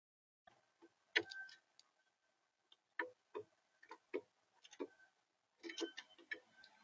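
Irregular sharp taps and clicks on a bird feeder close to its camera's microphone, as a visitor feeds at it, coming in a quick cluster near the end.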